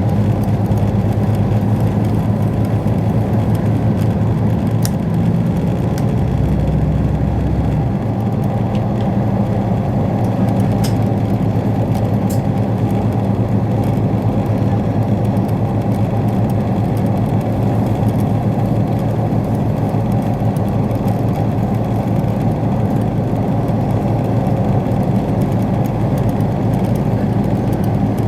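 Steady rumble and low hum inside a passenger train carriage, with a few faint clicks.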